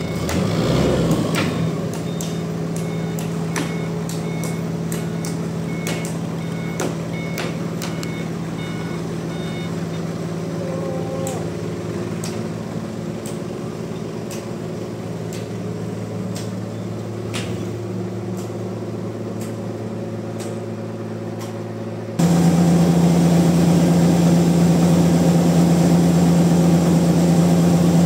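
Heavy sawmill machinery running with a steady engine drone, short high beeps repeating about once a second for the first several seconds, like a reversing alarm, and scattered clicks. About two-thirds of the way through the sound cuts abruptly to a louder, steady machine drone.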